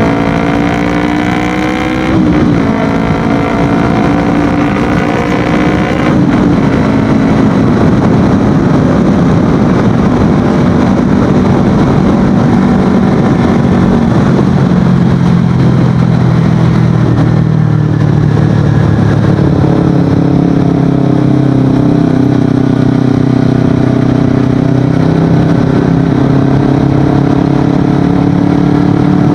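Kawasaki Ninja 250FI motorcycle with an Akrapovic exhaust accelerating while being ridden. The engine pitch climbs and drops on upshifts about two and six seconds in, then settles to a steady cruise with wind noise on the microphone.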